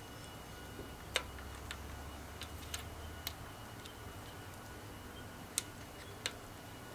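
Light metallic clicks and clinks of hand tools and engine parts being handled during reassembly of a Kohler K301 engine, about seven sharp, irregular strikes. A low hum stops about halfway through.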